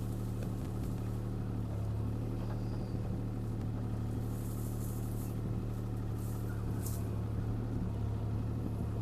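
CAT 303C CR mini excavator's diesel engine running steadily under work, with a couple of brief hisses midway.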